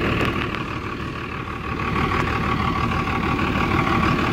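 Vehicle engine running steadily, easing off briefly about a second in and building back up.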